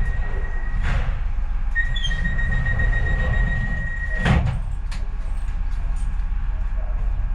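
Docklands Light Railway train at a station stop: a steady high door-warning tone sounds, then the sliding doors shut with a loud knock about four seconds in. The train's low steady rumble runs underneath.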